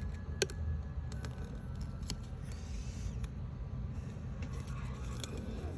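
Scattered light clicks and a brief rustle from craft materials being handled, over a steady low hum.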